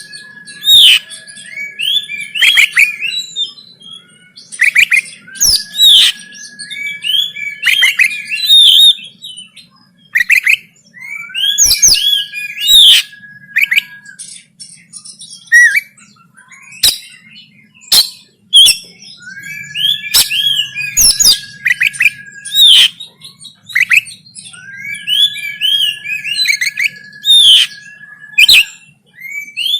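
Oriental magpie-robin (kacer) singing a fast, harsh fighting song: bursts of rapid sharp notes and clicks, repeated about every five or six seconds, several of them carrying a long level whistle beneath.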